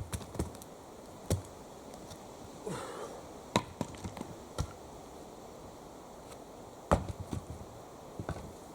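Axe chopping into wood: sharp, single blows landing irregularly about one to two seconds apart, with a few smaller knocks between them.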